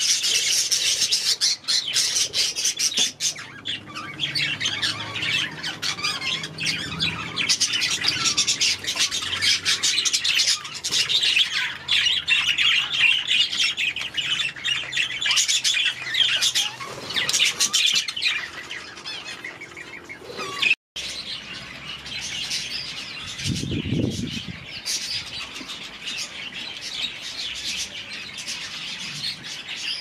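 A flock of small aviary birds chirping and chattering continuously, many short calls overlapping. There is a brief break about two-thirds of the way through, after which the chatter goes on a little quieter.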